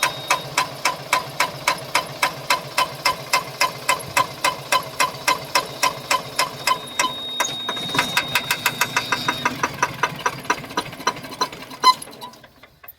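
JCB diesel engine running with a loud, regular knock, about three knocks a second, which quickens as the engine speeds up and then cuts off suddenly near the end.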